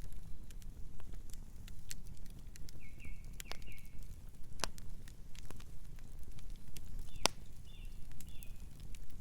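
Campfire burning: wood crackling and popping in irregular sharp snaps over a low steady rumble of flames, with one louder pop a little after seven seconds. Short faint high chirps come twice, about three seconds in and near the end.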